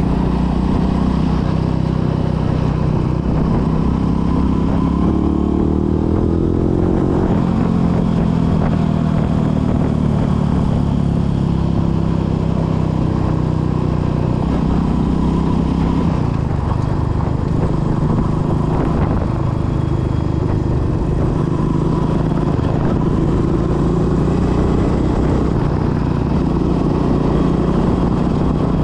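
Royal Enfield Meteor 350's single-cylinder engine running through an aftermarket AEW exhaust under way, its pitch rising as it accelerates about four to seven seconds in, then holding steady, with another rise near the end.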